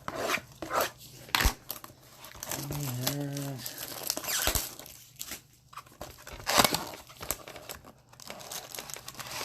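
Packaging of a trading card box, wrap and card stock, being torn open and crinkled, with a series of sharp rips. A brief hum of voice comes about three seconds in.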